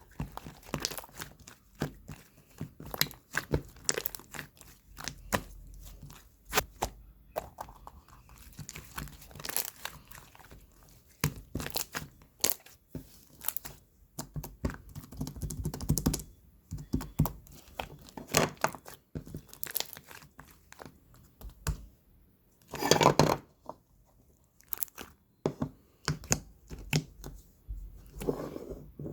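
Close-up crackling and crinkling handling noises: a dense, irregular run of small clicks and crunches, with a louder crunching stretch about 23 seconds in.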